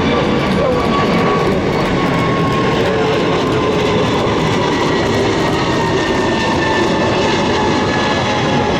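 Jet airliner's engines, loud and steady, as the plane passes. Over the rumble, several whining tones fall slowly in pitch.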